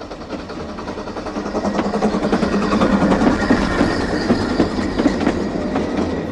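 Railway carriages rolling along the track, their wheels clattering rapidly over the rails, growing louder about a second and a half in.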